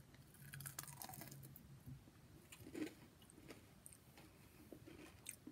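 Faint crunching and chewing of a Japanese crystal candy, its crisp sugar crust breaking over a soft jelly centre.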